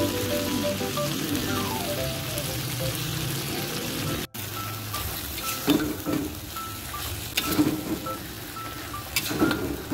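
Shredded chicken and spring onions sizzling steadily in a wok. In the second half a spatula stirs the food, scraping against the pan several times.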